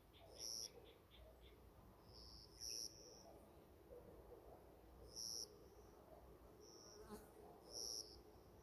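Quiet forest ambience: a short, high, buzzy call repeats about every two and a half seconds, under a fast ticking trill that stops about a second in. A single sharp click comes near the end.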